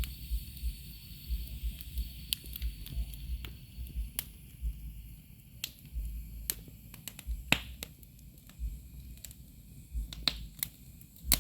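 Wood bonfire crackling, with irregular sharp pops and snaps of burning wood over a low rumble.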